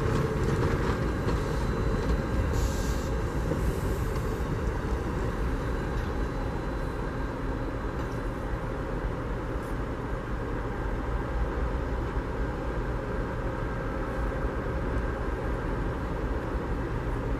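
Amtrak passenger train's coaches rolling past: a steady rumble of wheels on the rails.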